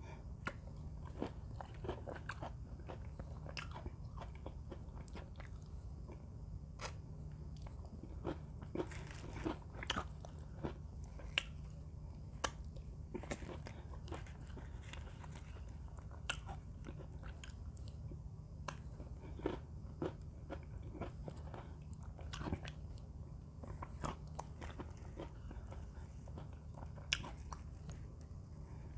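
Close-up crunching and chewing of Mini Oreo cookies: a stream of irregular crisp crunches, with a steady low hum underneath.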